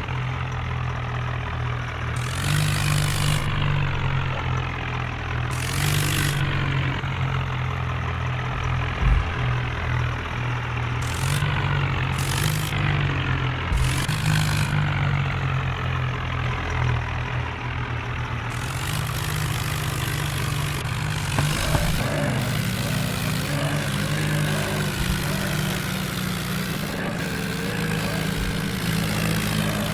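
Tractor engine running steadily, with several short bursts of hiss over it.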